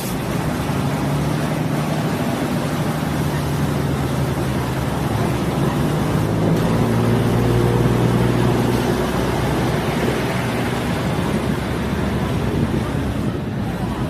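Diesel multiple-unit railcar's engine running under steady rolling noise, its note rising for a few seconds about midway as it pulls harder, then easing back.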